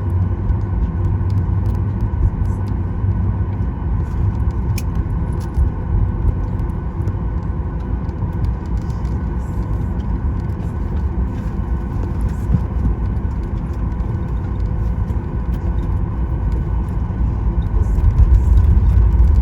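Inside the cabin of a Boeing 737 MAX 9 taxiing: a steady low rumble from the idling engines and the rolling aircraft, with a faint even hum. The rumble swells a little near the end.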